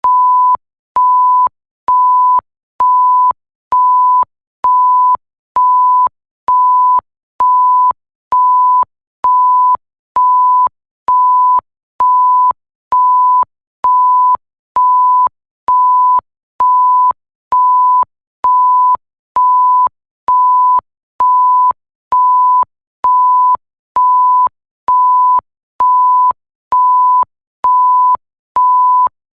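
Electronic bleep tone repeating at an even pace, about one short beep a second, each a single steady pitch with no overtones.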